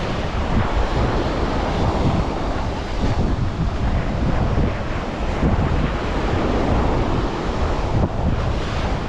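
Sea surf washing onto a beach, with wind buffeting the microphone in a steady low rumble.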